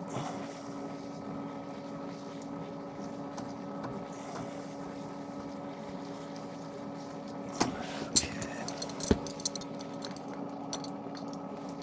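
A steady low hum, with a few sharp clicks and knocks of hand tools and fittings being worked from about seven and a half seconds in.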